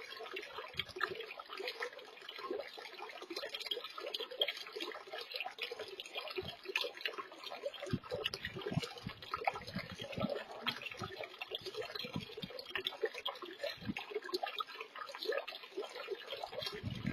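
Water trickling and splashing in a small garden pond: a steady, irregular patter of little drips and splashes.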